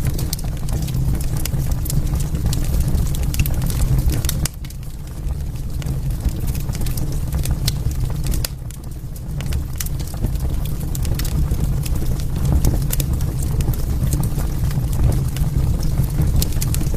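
Wood fire burning in a fireplace: a steady low rumble of flames with frequent sharp crackles and pops, dipping briefly twice.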